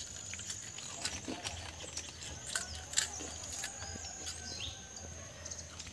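Crunching and chewing of a crisp deep-fried parippu vada (chana dal fritter): scattered sharp crunches, the loudest a little past the middle. A steady high insect drone and faint bird chirps carry on underneath.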